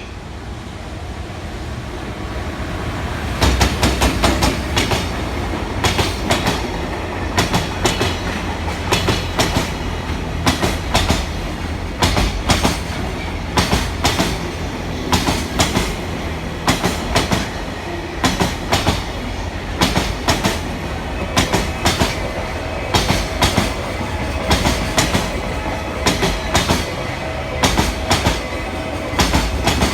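Freight train hauled by an EF210 electric locomotive passing through without stopping. The rumble builds over the first few seconds, then gives way to a steady clickety-clack of wagon wheel sets crossing the rail joints, coming in quick pairs and groups.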